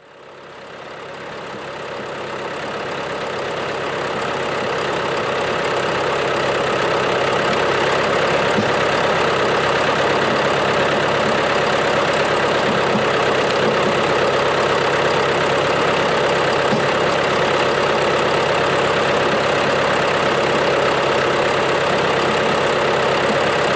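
John Deere 2750 tractor's diesel engine running steadily at a constant speed, fading in over the first few seconds.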